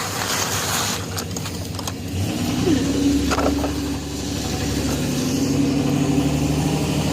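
A motor vehicle's engine running nearby: a steady low hum that sets in about two seconds in and holds, over rushing noise and a few clicks.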